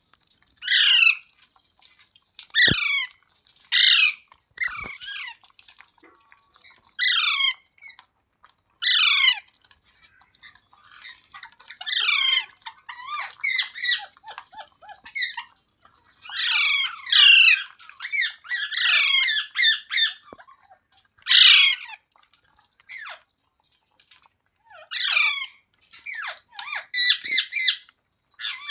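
Ringneck parrot (rose-ringed parakeet) squawking: a long run of short, shrill calls, one every second or two, with some coming in quick clusters.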